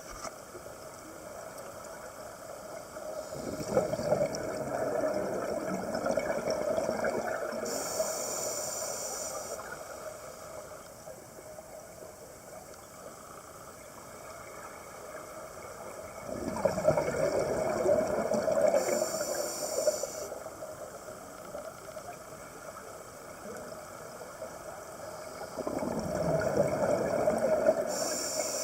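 A scuba diver's regulator breathing underwater: three slow breaths, each a long surge of exhaled bubbles gurgling out, with a short high hiss near its end.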